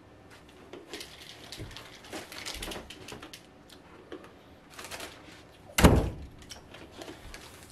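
Rustling and knocking of someone moving about, then a door shut with a loud thump nearly six seconds in.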